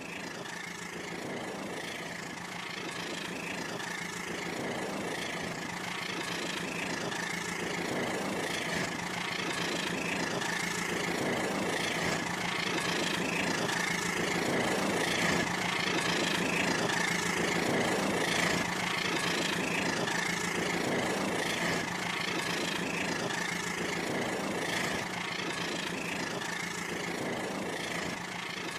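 Battery-powered toy train running on its track: a steady motor whine with a regular clatter about once a second. It grows louder toward the middle and eases a little near the end.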